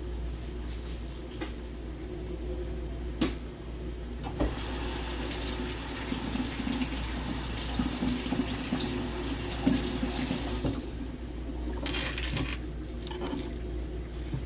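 Kitchen faucet running into the sink for about six seconds, rinsing a dirty onion, then shut off. A few knocks and clicks come before and after it.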